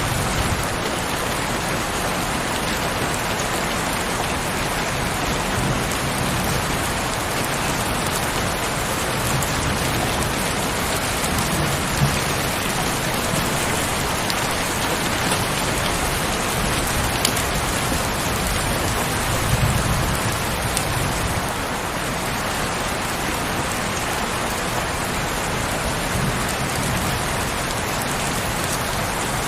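Heavy, steady rain falling, an even hiss of drops, with low rumbles that swell and fade every few seconds.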